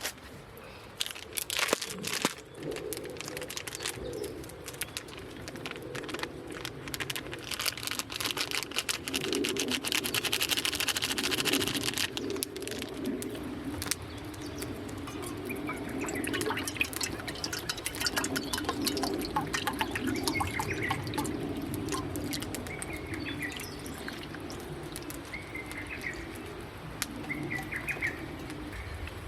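Small birds chirping in short calls through the second half, over a steady low hum; the first twelve seconds hold rapid clicking and clattering.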